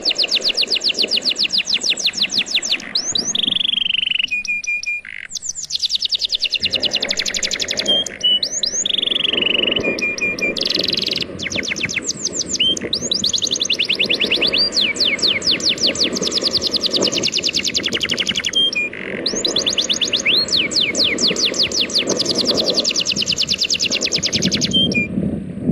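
A songbird singing long, very fast trills of repeated notes, broken now and then by short falling whistles, over the steady wash of sea waves.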